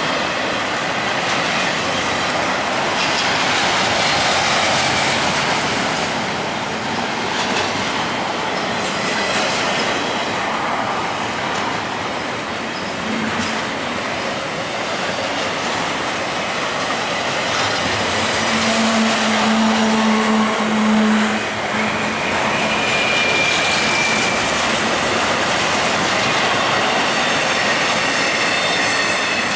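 Intermodal freight train cars rolling past close by: a loud, steady rush of steel wheels on the rails. Brief tonal wheel squeals come in about two-thirds of the way through.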